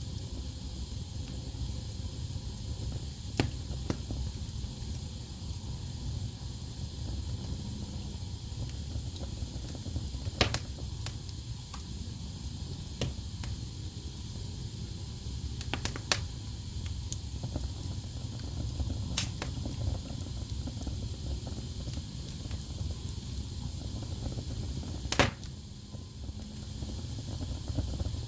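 Wood fire burning in a fireplace: a steady low rumble and hiss of the flames, broken by a handful of sharp pops and cracks from the burning logs, the loudest near the end.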